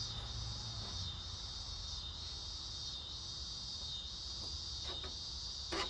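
Steady high-pitched chirring of insects, likely crickets, swelling and fading about once a second over a low rumble, with a short knock near the end.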